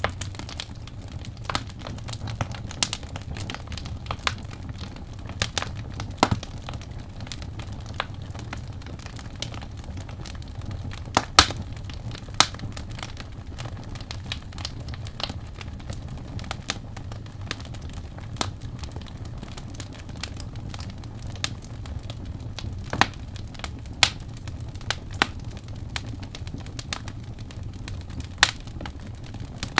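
Wood fire burning in a fireplace: a steady low rumble of flames under irregular crackles and sharp pops of burning wood, a few pops louder than the rest.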